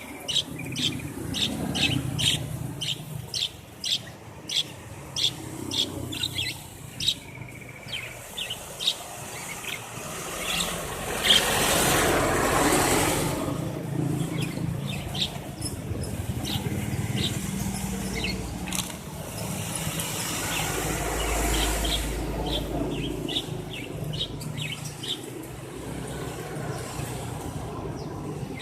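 Canary chirping: short, high calls repeated about twice a second at first, then more scattered. A broad rush of noise swells about eleven seconds in, and a low rumble comes around twenty seconds in.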